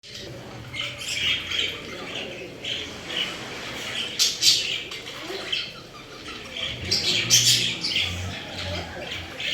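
Pet parrots calling: a run of short, repeated chirps with louder, harsh squawks about halfway through and again near the end.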